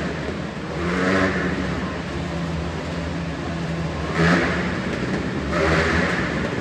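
Motorcycle engines revving continuously as the bikes circle inside a steel globe of death. The sound swells and fades several times as the bikes pass close.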